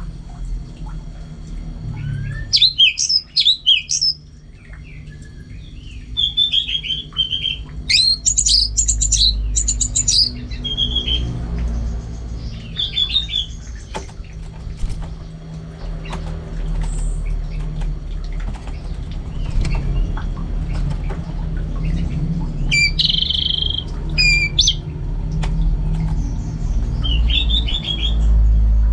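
Orange-headed thrush singing in separate bursts of fast, varied, high phrases with short pauses between them, over a steady low rumble.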